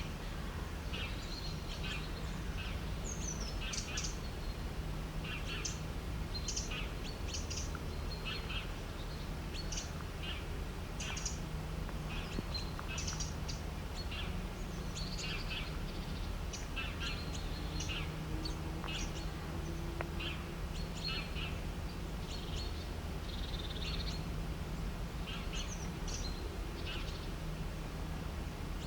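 Several birds chirping and calling, short chirps overlapping one another throughout, over a steady low hum.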